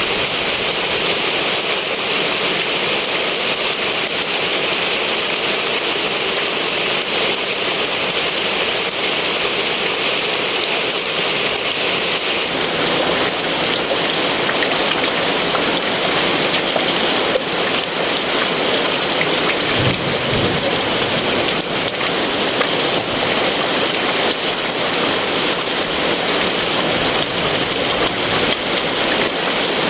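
Heavy rain pouring down steadily. About twelve seconds in, the sound shifts slightly in character but keeps going.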